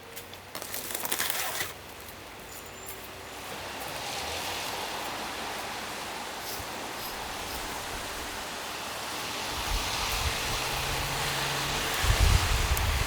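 A road vehicle approaching on the street: tyre hiss builds, and a low engine rumble grows over the last few seconds. A brief rustling noise comes about a second in.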